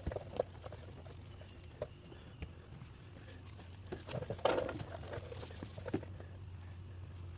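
Scattered soft rubbing and tapping as a microfiber towel and hands work a rinseless wash over car paint, with a louder brief rush about four and a half seconds in, over a low steady hum.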